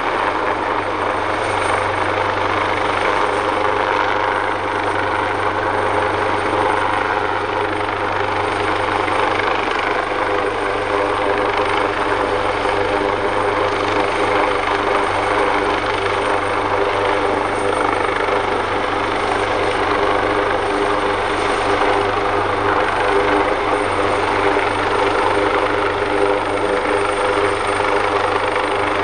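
Leonardo AW139 helicopter running steadily: the whine of its twin Pratt & Whitney Canada PT6C turboshaft engines mixed with the noise of its five-bladed main rotor, with several steady tones and no change in level.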